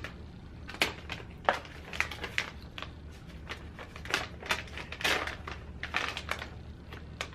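Plastic snack bag crinkling and crackling irregularly as it is pulled open by hand.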